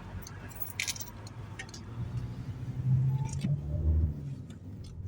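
Car cabin noise while driving: a steady low engine and road rumble, with a few light clicks.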